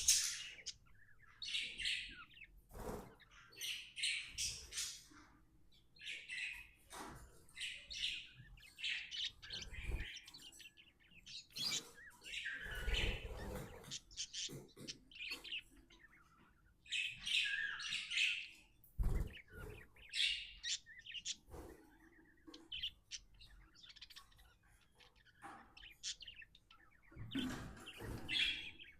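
Pet budgerigars chirping in quick, irregular runs of short calls, with a few knocks now and then.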